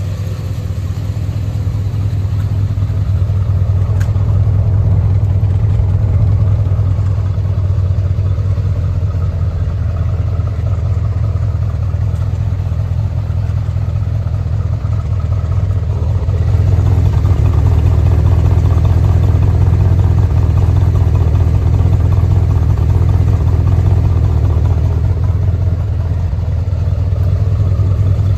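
Corsair roadster's engine idling steadily on its own, nobody on the throttle, while it warms up after a cold start; a low, even exhaust note that grows a little louder from about halfway through.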